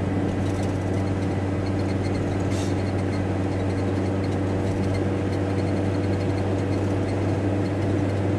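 Cabin noise of a VW T4 Transporter van on the move: engine and road noise holding a steady low drone with no change in pace.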